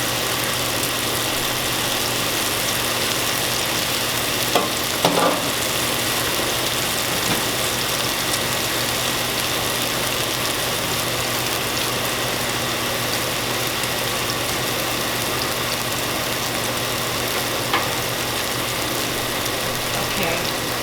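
Steady sizzling of hot olive oil in a frying pan, over a low steady hum, with a few light knocks, one about four to five seconds in and another near the end.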